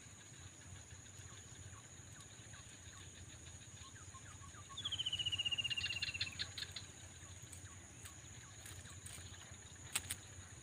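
Steady high insect buzz of the surrounding swamp, with scattered faint ticks. About halfway through, a bird gives a rapid trill lasting about a second and a half, sliding slightly down in pitch. A sharp click comes near the end.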